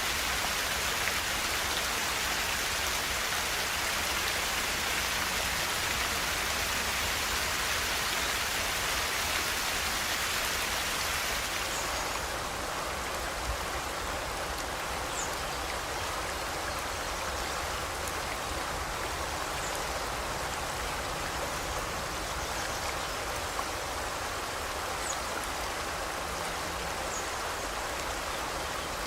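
River water flowing, a steady rush of water; about twelve seconds in the higher hiss drops a little. A few faint, short, high bird chirps come through near the middle and toward the end.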